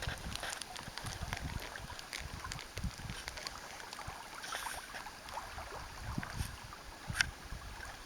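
Wood campfire crackling with scattered sharp pops, the loudest about seven seconds in, over an irregular low rumble.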